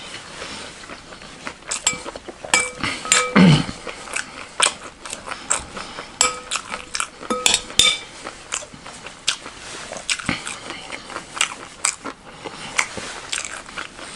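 Close-up crunchy chewing of chatpatey, a puffed-rice snack, with many small crunches. A metal spoon clinks against a glass mixing bowl, setting it ringing briefly at two points, around the third second and the seventh.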